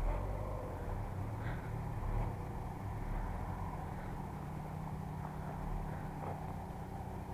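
SsangYong Korando's engine running steadily with a low hum, with a few light knocks and rattles here and there.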